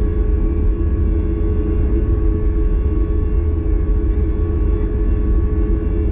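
Steady cabin noise inside a Boeing 737 MAX 8: a constant low rumble of its CFM LEAP-1B engines and airflow, with a steady hum and whine over it.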